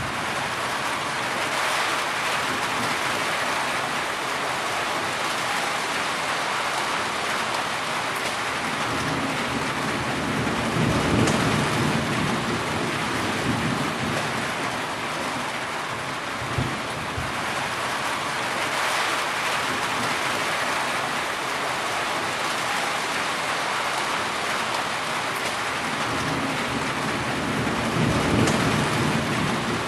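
Heavy rain falling steadily, with low rolls of thunder about a third of the way in and again near the end, and one short sharp crack a little past halfway.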